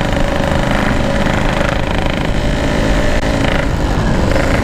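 Yamaha RX-King's two-stroke single-cylinder engine running steadily while the motorcycle is ridden at an even speed.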